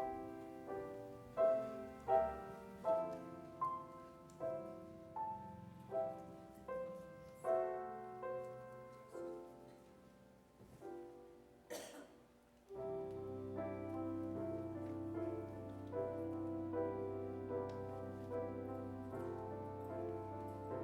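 Piano playing a slow melody, single notes struck one after another, each ringing and fading, about one every three-quarters of a second. After a brief noise about twelve seconds in, steady held chords over a sustained low bass note take over.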